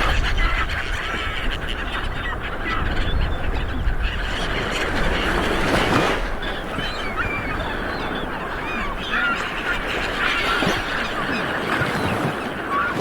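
Light waves washing onto a beach, swelling about six seconds in, with many birds calling and chirping throughout.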